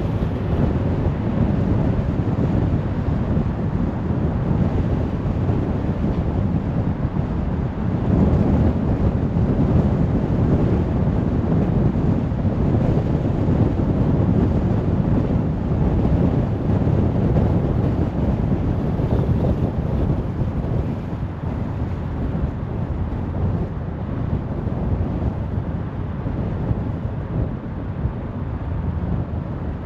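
Steady road and wind noise from a moving car: a low rumble of tyres and rushing air with no distinct events, swelling a little about a quarter of the way in and easing slightly near the end.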